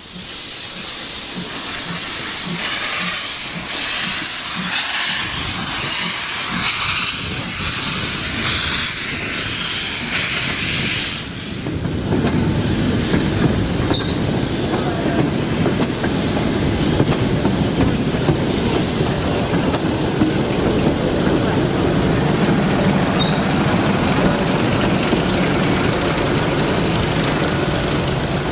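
Steam locomotive working, with hissing steam and a regular beat. About twelve seconds in it changes abruptly to a fuller, lower running sound.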